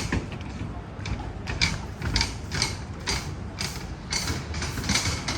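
Footsteps on pavement at a walking pace, about two steps a second, over a steady low outdoor rumble.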